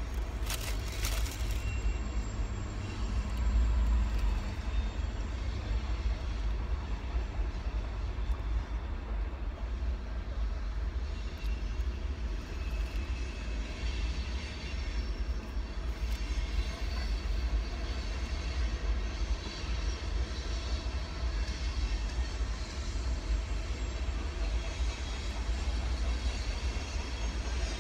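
Steady low rumble of a long train passing, heard from inside a car, with a few brief clicks about a second in.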